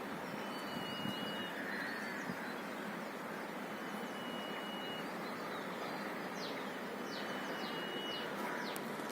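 Outdoor ambience of birds calling over a steady background rush: thin, high whistled notes held for a second or so, repeated several times, then a run of quick downward chirps near the end.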